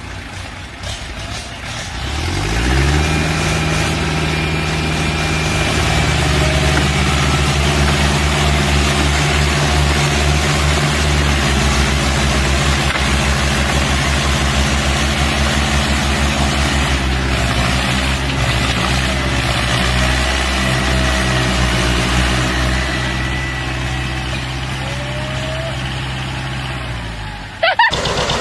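A heavy vehicle's engine revving up about two seconds in, then held at high revs with small wavers, and cut off suddenly near the end.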